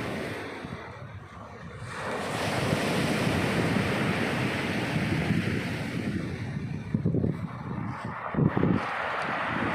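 Black Sea surf washing on the shore under gusty wind, with wind buffeting the microphone. The surge swells about two seconds in, and short, uneven wind blasts hit the microphone near the end.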